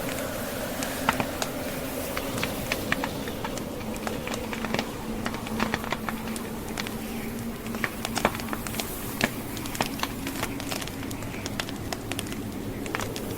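Wood fire crackling with irregular sharp pops over the steady drone of blizzard wind.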